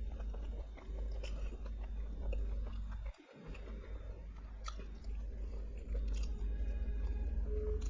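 Close-miked chewing and biting of food, with scattered short wet mouth clicks over a steady low hum; the sound drops out briefly about three seconds in.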